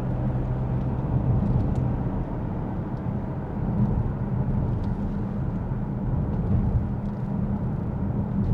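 Steady engine hum and road noise of a moving vehicle.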